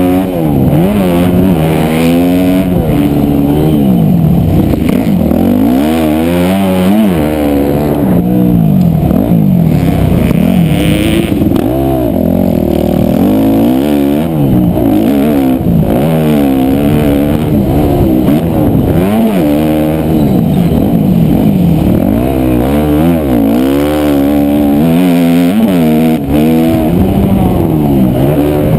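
Motocross dirt bike engine revving hard and easing off over and over, its pitch climbing and dropping every second or two as the rider works the throttle and gears around the track.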